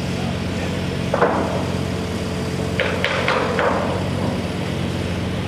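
A machine running steadily with a low hum, with a knock about a second in and a short run of sharp knocks or clanks around three seconds in.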